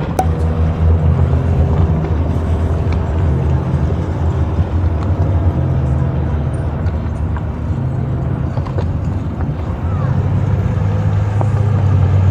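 An engine running steadily at low revs, a low hum that shifts a little in pitch throughout.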